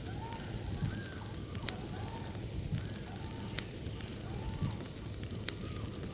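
Bonfire burning with a steady rush and a sharp pop from the wood about every two seconds. Faint short calls that rise and fall repeat about once a second in the background.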